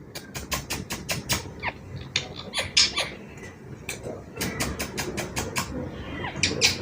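Indian ringneck parrot making rapid sharp squeaky chirps and clicks, about five a second, in two runs with a short pause between them, some chirps falling quickly in pitch.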